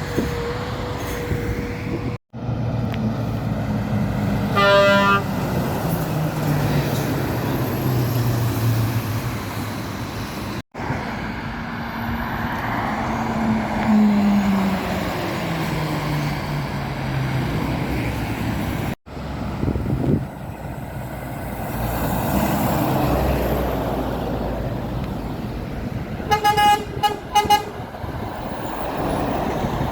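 Heavy trucks passing on a road, their engine note falling in pitch as each goes by. One horn toot comes about five seconds in, and a run of short horn blasts near the end.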